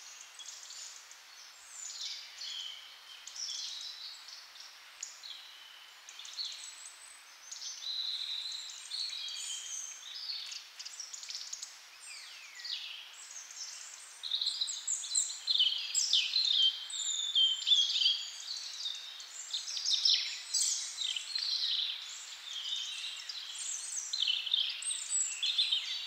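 Small birds chirping and calling, many short quick notes overlapping, growing busier and louder about halfway through.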